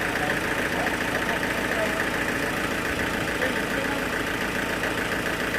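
A sawmill's engine running steadily at idle, with a fast even pulse.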